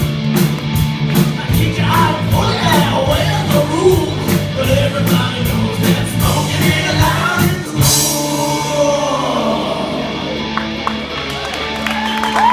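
Live rock band playing with drums and a singer. The drumming and singing stop about eight seconds in, leaving a last chord ringing out.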